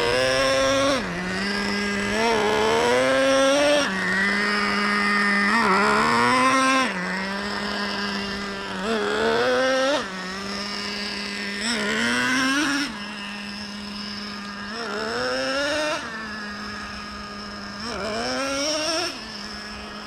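Traxxas Revo 3.3's two-stroke nitro glow engine during break-in, revved to about half throttle for a couple of seconds at a time, about seven times, dropping back to a steady idle between bursts.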